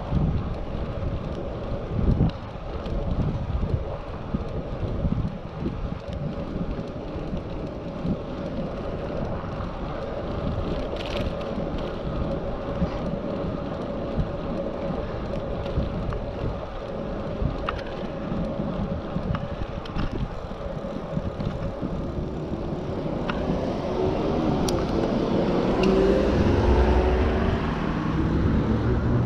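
Wind rushing over a bike-mounted action camera's microphone, with tyre and road noise from a moving bicycle. A louder low rumble builds over the last few seconds.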